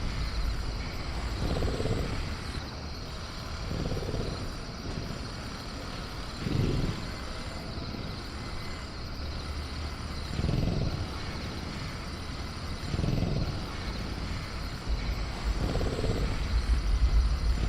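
Dinosaur-cage jungle ambience from a sound-effects track: a steady low rumble and hiss, with soft low swells every two to three seconds.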